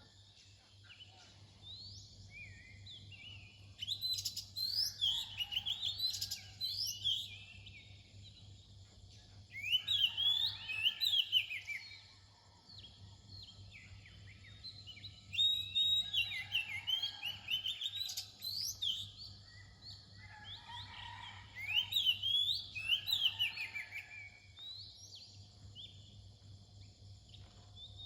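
Oriental magpie-robin singing: four phrases of quick, varied whistled notes with rising and falling sweeps, about every five to six seconds, with fainter bird calls between the phrases.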